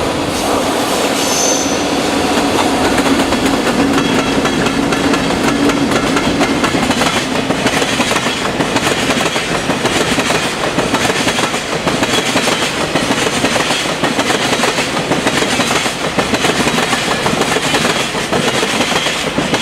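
Freight train of tank wagons rolling past close by, wheels clattering over rail joints in a dense, continuous rhythm, with a brief high wheel squeal about a second and a half in.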